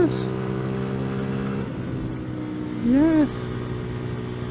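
Small CFMoto Papio motorcycle engine running steadily under throttle, then easing off about a second and a half in and carrying on at a lower, steady note. A short rising-and-falling pitched sound comes about three seconds in.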